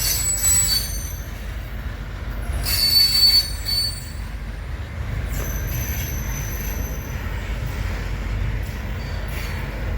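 Loaded coal hopper cars of a freight train rolling past with a steady low rumble, their wheels squealing high-pitched on and off, loudest about three seconds in.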